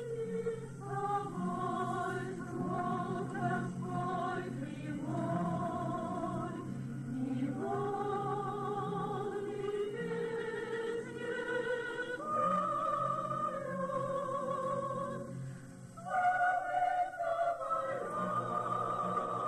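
Male and female voices singing a slow song in duet, long held notes with vibrato and short breaks between phrases.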